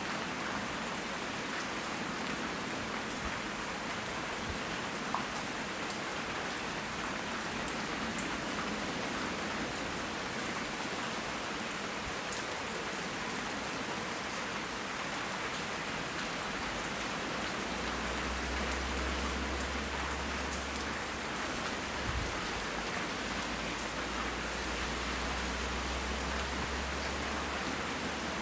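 Steady rain falling in a dense, even patter, with a few sharper drops standing out. A low rumble comes in about two-thirds of the way through and lasts until near the end.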